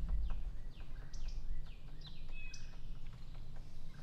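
Birds calling in a quick, irregular series of short chirps, each sliding downward in pitch, over a low steady background rumble.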